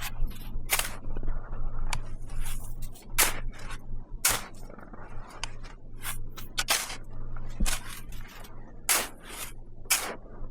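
Irregular short scraping strokes, about one or two a second, over a low steady hum.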